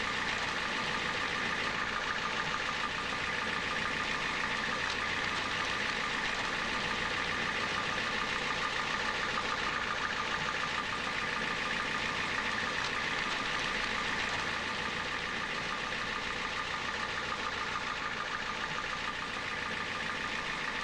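Recycling truck's engine idling steadily.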